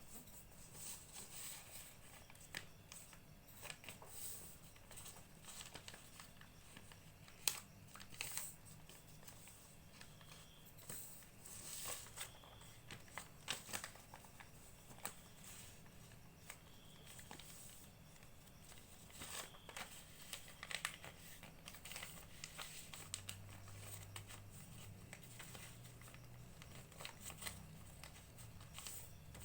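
A sheet of paper being folded by hand into a paper airplane: faint, irregular rustling and crinkling, broken by short sharp ticks as the paper is handled and creased.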